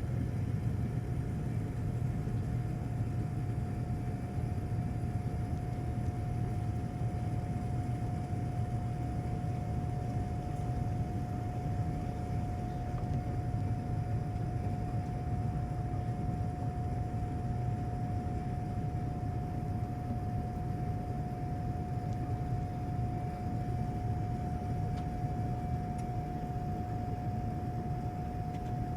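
Boeing 787-9 in flight, heard from inside the cabin: a steady low rumble of engine and airflow noise with a constant high hum over it.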